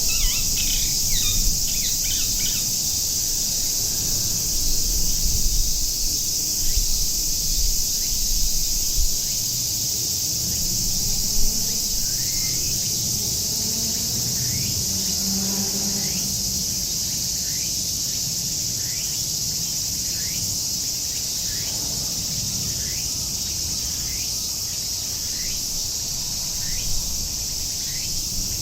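Cicadas singing in a steady, loud, high-pitched chorus. From about the middle on, a bird gives short rising calls about once a second, over a low background rumble.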